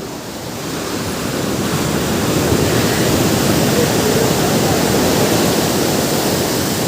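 Ocean surf: a wave swells in over the first couple of seconds, washes loudly, and eases off near the end.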